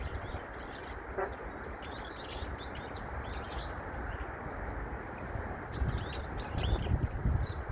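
Small birds chirping busily, many short, quick down-slurred notes overlapping, over a low rumble with a few heavier thumps near the end.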